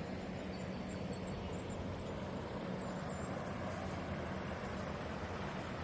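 Creek water flowing, a steady rushing hiss with a low steady hum underneath and a few faint high bird chirps.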